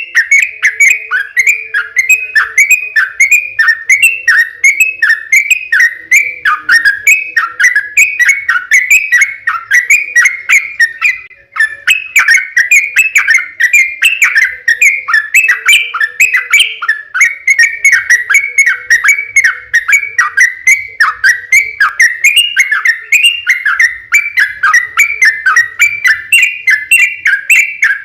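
Yellow-vented bulbul (trucukan) singing its long rapid song: an unbroken chain of quick, sweeping chattering notes, about three a second, with one short pause about eleven seconds in.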